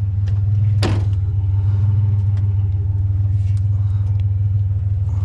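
Vehicle engine idling steadily with a low, even rumble, with a sharp metallic knock about a second in and a few lighter clicks of scrap being handled.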